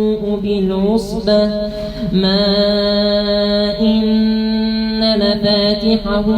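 A man's voice reciting the Quran in melodic tajweed style, holding long drawn-out notes with ornamental pitch turns. There is a brief break and a sliding turn about a second in.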